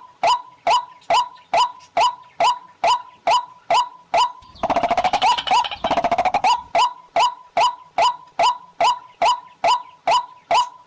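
White-breasted waterhen calling: a long, even series of short, rising honking notes, about two and a half a second. Between about four and a half and six and a half seconds it breaks into a faster rattling run before the steady series resumes.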